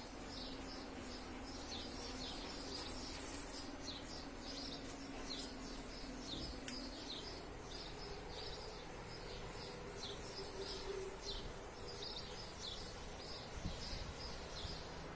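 A bird chirping over and over, short high chirps about two a second, over a faint steady background hiss.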